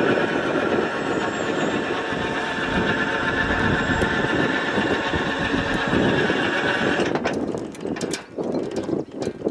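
Cars of a BNSF coal train rolling past, a steady rumble and hiss of steel wheels on rail. It drops off sharply about seven seconds in, leaving a few scattered clicks.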